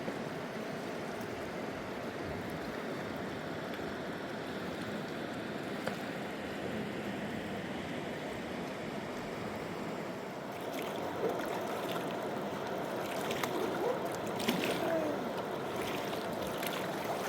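Steady rushing of a mountain river or stream. In the second half, scattered short clicks and knocks and a couple of brief falling pitched calls sound over it.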